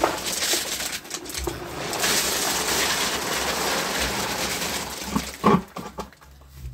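Gravel and stones poured out onto a surface, a long, loud rattling hiss of pouring gravel. Near the end come a few sharp knocks of stones dropping into place.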